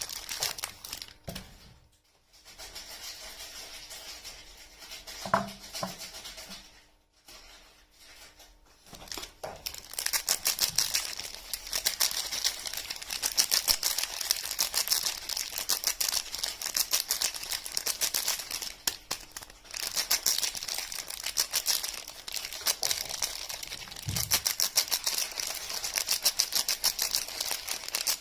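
Soap packaging being unwrapped by hand: wrapping crinkling and tearing. It is quieter with a few soft knocks at first, then a dense, crackly run of crinkling from about a third of the way in.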